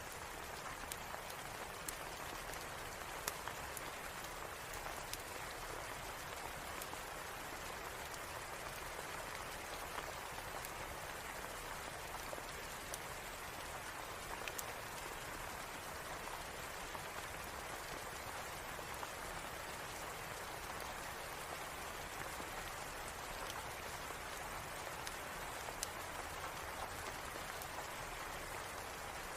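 Steady rain falling, with scattered sharp little crackles and ticks from a fireplace.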